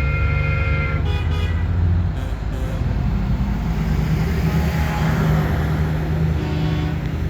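Big trucks' engines running as they pass in a parade, with truck horns sounding. A held horn stops about a second in, a short blast follows right after, and another short blast comes near the end.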